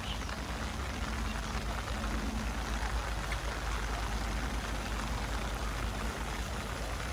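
Steady rain mixed with the flow of a small river: an even hiss with a low rumble underneath.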